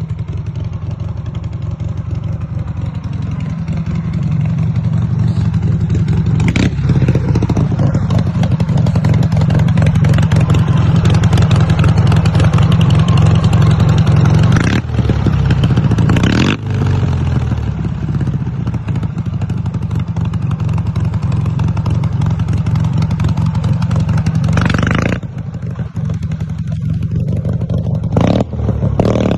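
Ural motorcycle's flat-twin engine running under way, getting louder a few seconds in, with brief drops in level around halfway and near the end as the throttle eases.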